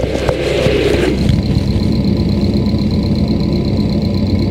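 Rustling and clicks of a microphone being fitted into a det-can earpiece, giving way about a second in to the steady sound of the Subaru's engine idling, heard through the det cans' knock sensor.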